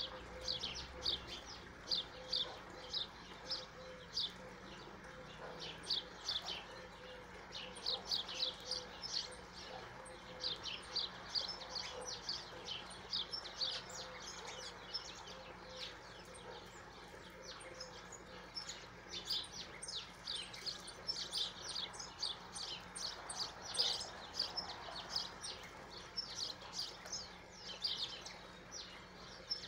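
Small birds chirping: a busy run of short, high chirps, several a second and overlapping, from more than one bird.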